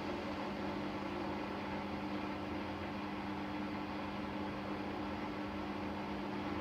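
Siemens Siwamat iQ 716 washing machine running with a steady, even whir and hum that holds one pitch throughout.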